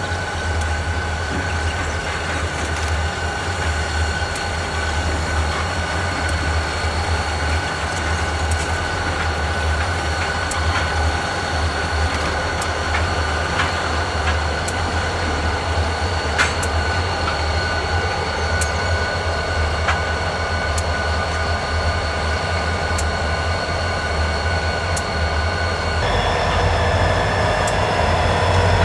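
Diesel locomotives rumbling steadily as they move slowly, with steady high whining tones over the low engine sound and scattered sharp clicks from the wheels and track. Near the end the whining tones change pitch.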